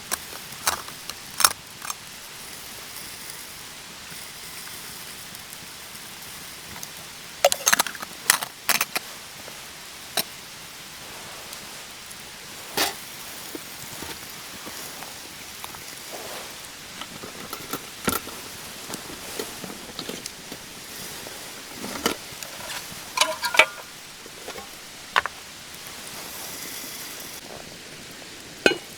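Steady rain hiss, broken by scattered sharp clicks and clinks of gear being handled, a few of them ringing briefly like metal.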